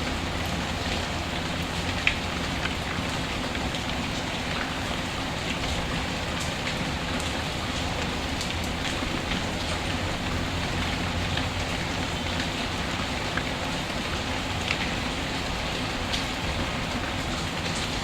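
Steady rain falling, mixed with occasional sharp crackles from a wood fire in a fireplace.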